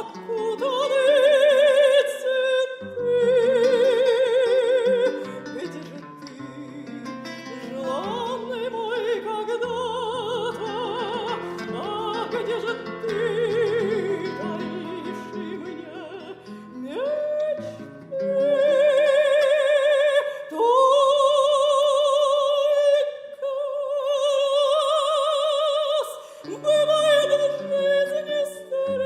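Female operatic voice singing a romance with wide vibrato over piano accompaniment, holding long high notes, the fullest and loudest ones in the second half.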